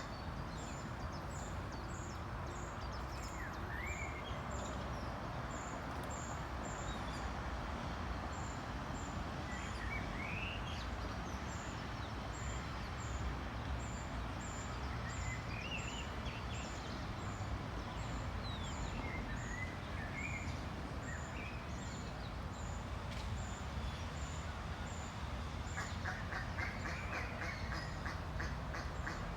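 Ducks and ducklings calling: scattered short rising peeps over a steady background hiss, with a run of quick repeated calls near the end.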